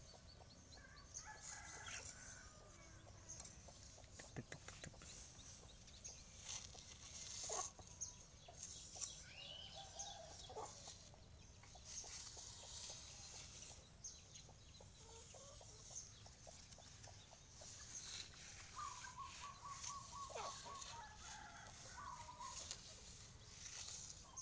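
Faint chicken clucking with a few short calls, and scattered light clicks and taps.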